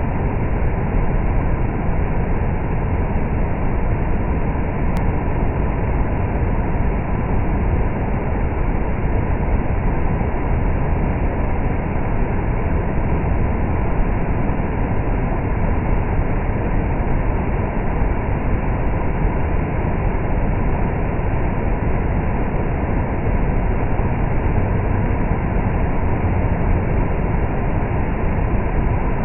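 Heavy rain pouring with rushing water: a loud, steady, even noise.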